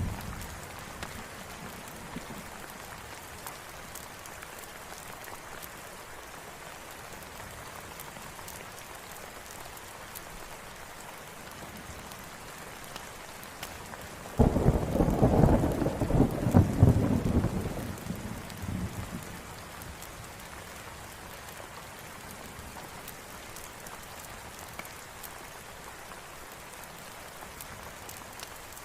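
Steady rain falling, with a roll of thunder that breaks in suddenly about halfway through and rumbles away over about four seconds.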